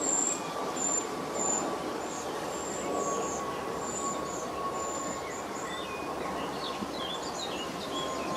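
Small birds calling: short, high, thin notes repeating about twice a second, then scattered chirps near the end. Underneath is a steady distant rumble with a faint continuous whine.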